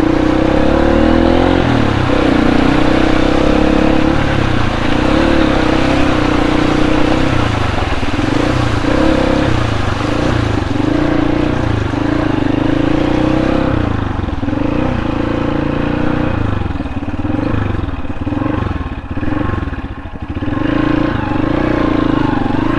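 Motorcycle engine running as the bike is ridden over rough off-road ground, its pitch rising and falling with the throttle; in the last third the revs rise and drop repeatedly.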